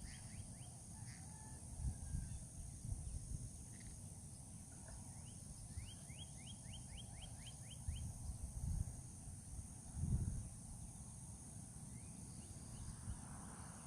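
Distant lions roaring: a few low rumbles, the strongest about ten seconds in, over steady insect buzzing. Around six seconds in, a bird gives a quick series of about nine rising notes.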